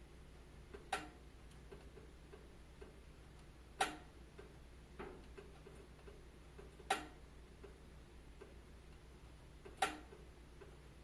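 Wood fire crackling: four sharp pops about three seconds apart, with fainter small crackles between them over a low steady hum.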